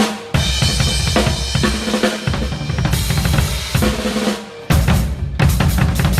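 Acoustic drum kit played hard in a sound check: fast fills on snare and bass drum under crashing Zildjian cymbals, with a brief break about four and a half seconds in before the hits resume.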